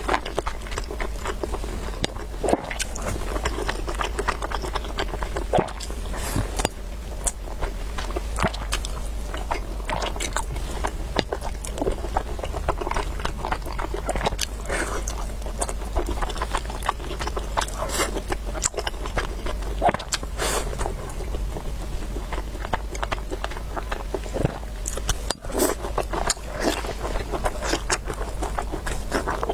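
A person eating close to the microphone: chewing and biting, with many short wet clicks and smacks, over a steady low hum.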